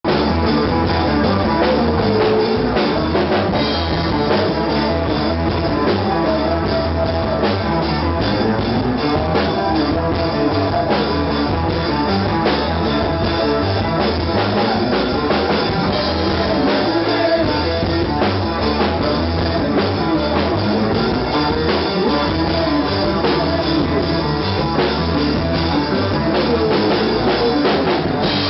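Rock band playing: a drum kit keeping a steady beat under guitars, the full band sounding continuously at a loud, even level.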